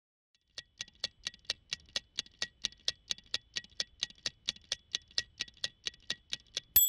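A mechanical timer ticking evenly, about four ticks a second, then a single bright bell ding near the end that rings on.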